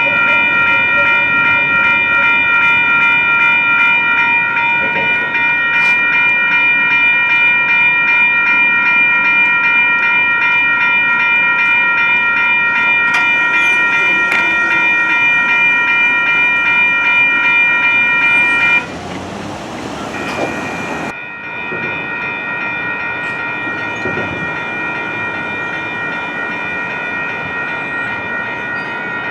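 Grade-crossing warning bells ringing steadily at a light rail crossing. About two-thirds of the way in the loudest bell cuts off abruptly, a brief rush of noise follows, and quieter ringing carries on.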